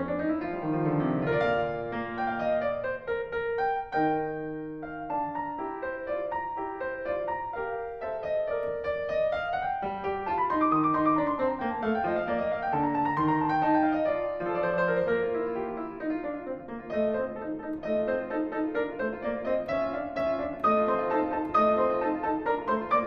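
Background piano music, a flowing melody of single notes and chords.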